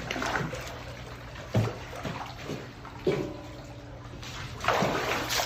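Water splashing and sloshing as alligators move in their pool at feeding time, with two sharp knocks in the middle and a bigger splash near the end, over a steady low hum.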